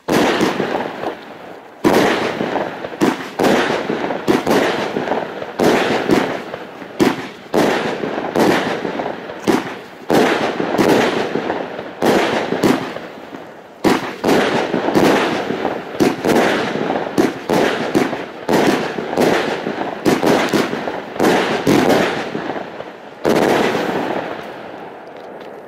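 Jadedrache 25-shot fireworks battery firing: a fast run of launches and bursts, about two bangs a second, each with a hissing tail. A last loud bang comes near the end and dies away.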